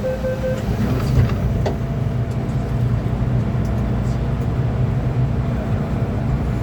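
Inside an MTR M-Train electric multiple-unit, rapid warning beeps stop about half a second in. A steady low rumble and hum of the train follows.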